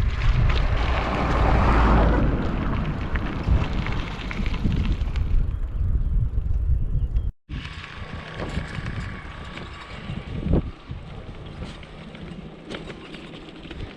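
Heavy wind buffeting the microphone, a loud low rumble. It cuts off abruptly about halfway through, and a quieter stretch with light scattered ticks and faint wind follows.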